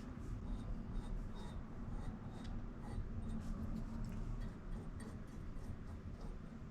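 Soldering flux being brushed onto a copper pipe and fitting: faint, light scratching and rubbing with scattered small ticks, over a low steady hum.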